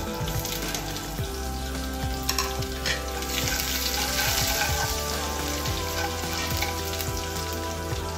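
Tempering for upma: chana dal, chopped green chillies and curry leaves sizzling in hot oil in a nonstick kadai, the sizzle growing louder about three seconds in. A metal spoon scrapes and taps against the pan as they are stirred.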